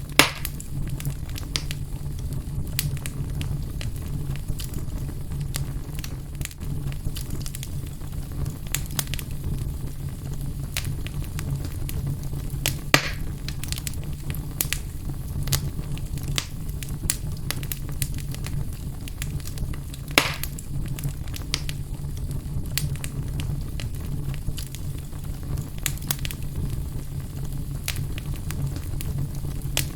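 Wood fire burning in a fireplace: a steady low rumble with frequent small crackles and three louder pops spread through it.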